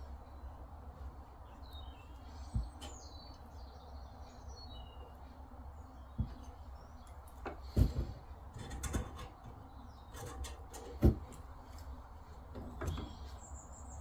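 Scattered knocks and clicks of plumbing tools and fittings being handled while a pipe connection is made up under a sink, about half a dozen, the loudest about eight and eleven seconds in. Birds chirp in the background.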